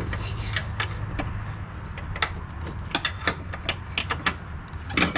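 Ratchet wrench tightening strut fasteners, clicking in short irregular runs of sharp metallic clicks, over a steady low hum.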